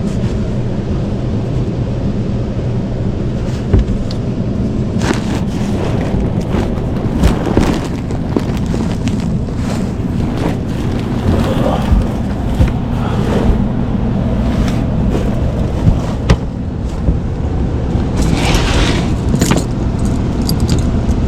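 A steady low mechanical hum under frequent irregular knocks, bumps and rustles, like someone crawling and climbing through framing while handling gear.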